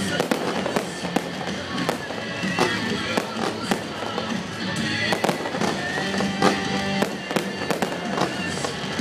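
Fireworks display: rapid, repeated bangs and crackles of aerial shells bursting, with music playing under them.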